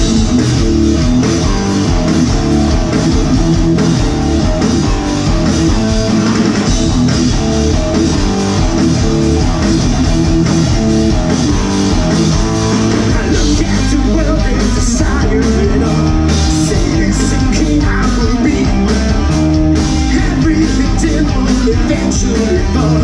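A live rock band plays the instrumental intro of a song, with electric guitar, bass and drums. The drums and cymbals get busier from about halfway through.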